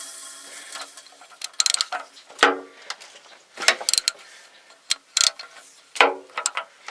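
Metal clinking and clanking as hand tools and engine parts are handled: a run of irregular sharp metallic knocks, each with a short ring.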